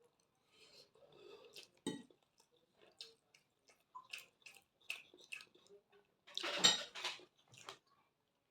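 Close-miked eating sounds: cutlery clinking and scraping against a plate, with a string of short wet clicks. A sharp ringing clink comes about two seconds in, and a longer, louder noisy sound comes shortly before seven seconds in.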